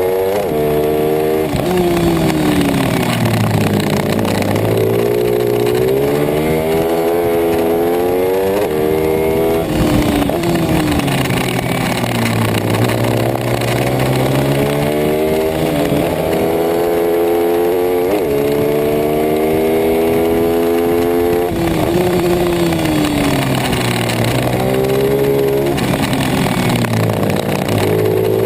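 Racing pit bike engine revving hard and easing off, over and over: the pitch climbs as it accelerates, then drops as it slows, about five times.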